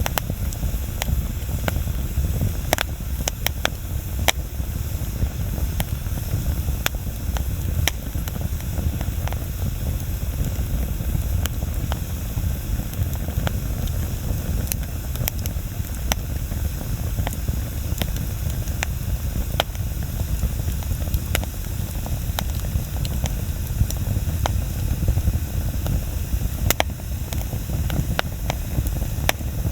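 Wood bonfire crackling, with many sharp pops and snaps scattered irregularly over a steady low rumble.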